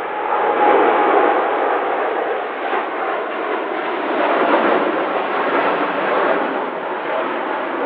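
Boeing 787-9 Dreamliner jet engines at takeoff power: a loud, steady roar of engine noise that swells slightly about a second in and again around the middle.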